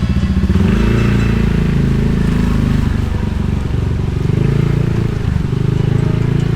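Motorcycle engine running under way, with its pitch rising and falling as the throttle opens and closes. It starts with a slow pulsing beat, then picks up speed about half a second in, and dips briefly near five seconds in.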